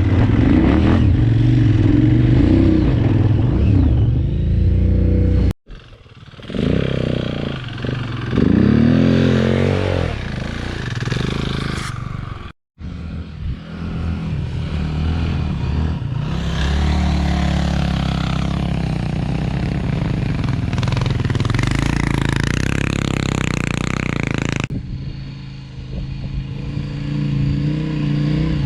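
KTM 990 Adventure's LC8 V-twin engine running under load and revving up and down while riding. The sound cuts out suddenly twice, about six and thirteen seconds in.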